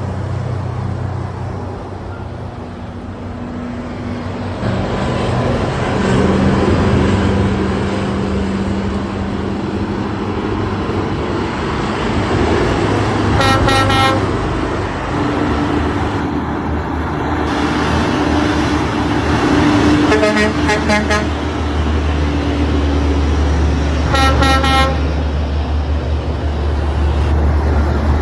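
Heavy truck engine running steadily with road noise, and a vehicle horn sounding in three short toots, about halfway through and twice more later.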